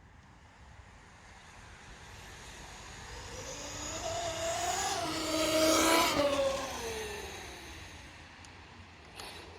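Electric RC monster truck's motor whining as it speeds past: it grows louder as it approaches, is loudest about six seconds in, then drops in pitch and fades as it moves away. A short click comes near the end.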